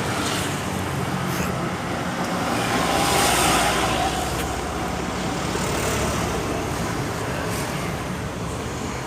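Steady engine rumble with a broad hiss that swells for a moment about three seconds in.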